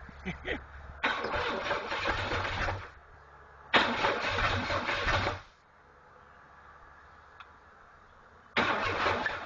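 Oil-starved Chevrolet 4.3 L TBI V6 being cranked on the starter in three bursts of about two seconds each, with pauses between; the third keeps going.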